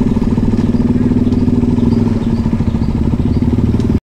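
Motorcycle engine running at a steady speed; the sound cuts off abruptly near the end.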